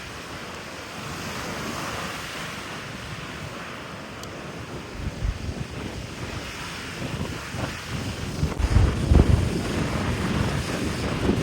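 Surf washing on the shore in strong typhoon wind. From about halfway through, gusts buffet the microphone in rising low rumbles that get louder toward the end.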